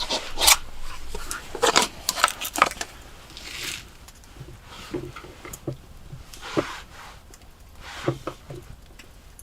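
Scattered light clicks, knocks and short scrapes of camp cooking gear and utensils being handled, with a cluster of sharp clicks in the first three seconds.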